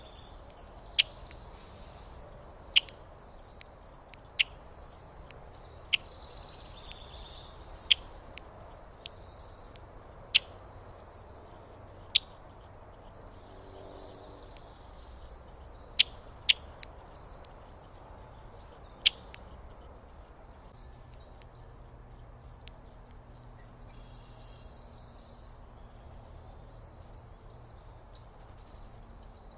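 A bird giving sharp, short chip calls about ten times at irregular intervals over roughly twenty seconds, then falling quiet. Fainter high bird sounds continue in the background.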